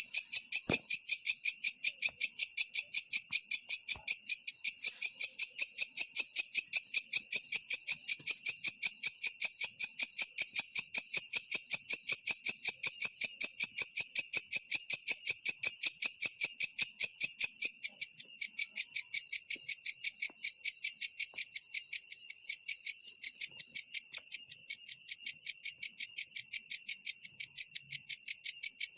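Green katydid (belalang kecek) calling at night: a steady, high, jingling pulsed song of about four chirps a second.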